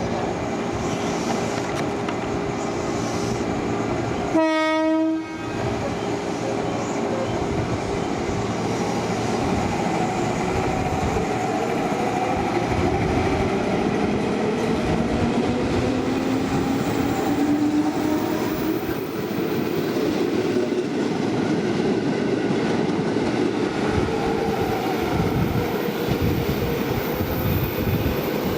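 Freight train rolling past, its wheels clattering over the rail joints in a steady rumble. The locomotive horn sounds once for about a second, a few seconds in. Later a whine from the train rises slowly in pitch over several seconds.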